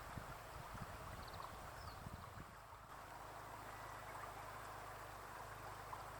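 Quiet outdoor ambience: a steady rushing noise, with low wind buffeting on the microphone during the first half and a few faint short high chirps about a second in.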